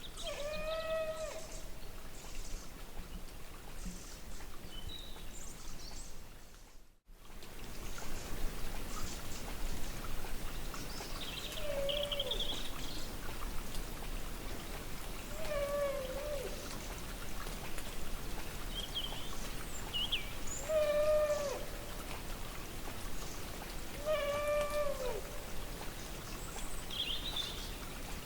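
An unidentified animal calling from far off: a drawn-out, pitched cry of about a second that drops in pitch at its end, heard five times. Small birds chirp faintly in between.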